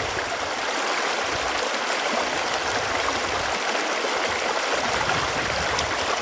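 Running water with a steady, even rush and gurgle, like a stream.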